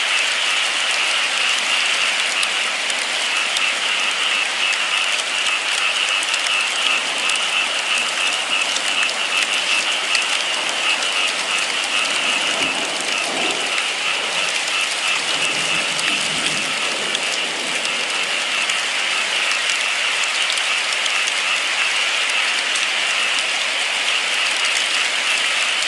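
Steady, heavy rain: a dense, even patter of drops with a hiss, with a few faint low thuds around the middle.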